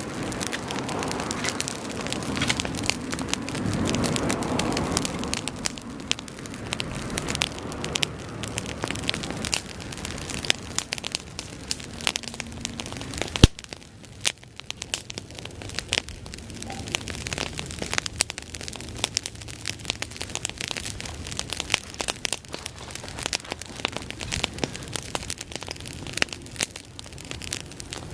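Bonfire of dry grass crackling and popping without a break, with a rushing of flames over the first few seconds and one sharp crack about halfway through.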